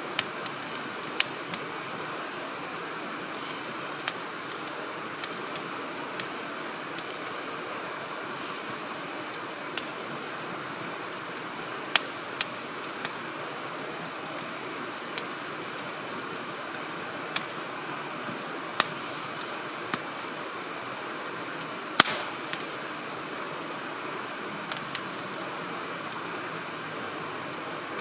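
Wood campfire crackling: irregular sharp pops and snaps, a second or few apart, over a steady even hiss. The loudest pop comes about 22 seconds in.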